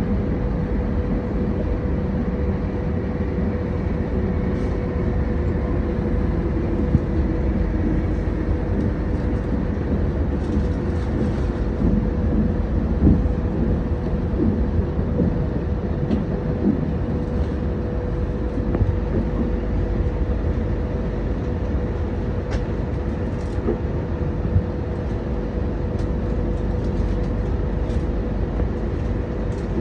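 Passenger train running along the track, heard from inside the carriage: a steady low rumble with a constant whine and occasional light clicks and knocks.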